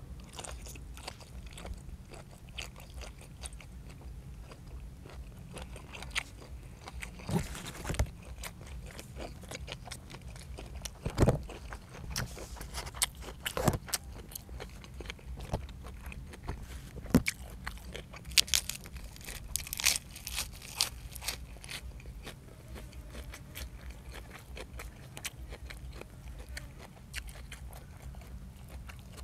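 A person eating close to the microphone: irregular chewing and biting with crisp crunches, a few of them much louder around the middle, over a steady low hum.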